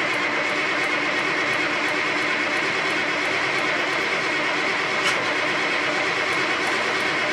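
Mack R Model truck's diesel engine cranking steadily on the starter without catching, with faint even pulses about three a second, a sign of a hard start on an engine that has sat with little fuel reaching it. A sharp click about five seconds in.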